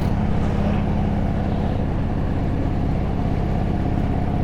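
Motorcycle engine running at a steady speed while riding, under a steady rush of wind and road noise.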